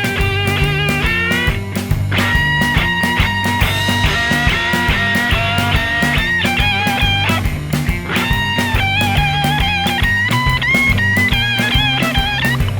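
Electric guitar solo in a blues song, with bent, sustained notes and vibrato over a steady bass and drum backing.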